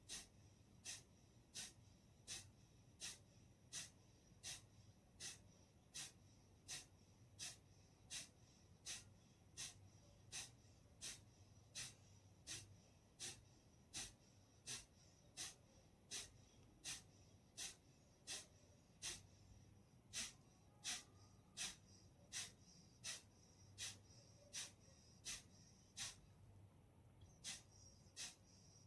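Kapalbhati breathing: short, forceful exhalations through the nose at a steady rhythm of about one and a half a second, with a brief pause near the end.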